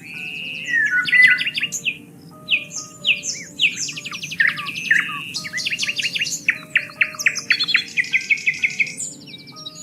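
Several birds chirping and singing at once, with many overlapping rapid trills, whistled slides and quick repeated notes, over a low steady background hum.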